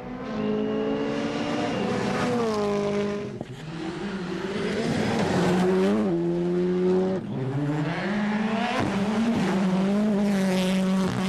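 Rally car engine pulling hard through the gears, its pitch climbing and dropping repeatedly with gear changes and lifts.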